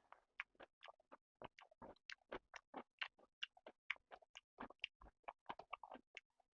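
A person chewing chicken and rice close to the microphone: many short mouth clicks and smacks in quick succession, several a second.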